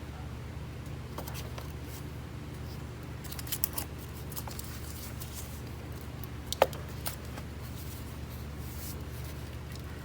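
Scattered clicks and snaps of the air filter housing's clips being fastened shut by hand, a small cluster near the middle and the sharpest single click a little past halfway, over a steady low hum.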